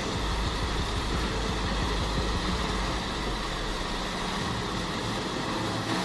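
Eschlböck Biber 92 drum wood chipper running steadily on its heavy engine, a dense machine rush over a deep rumble. The deepest rumble eases somewhat about four and a half seconds in.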